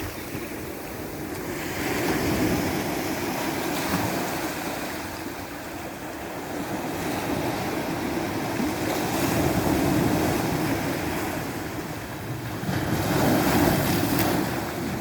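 Ocean waves breaking and washing on the shore, the surf swelling and ebbing in slow surges every few seconds, with wind on the microphone.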